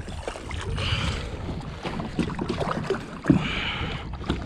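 Water and handling noise on a kayak while a hooked bass is being fought to the boat, with a sharp knock about three seconds in and some wind on the microphone.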